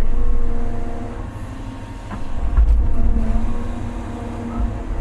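Large excavator's diesel engine running with a steady drone, swelling louder at the start and again about halfway through as the machine works.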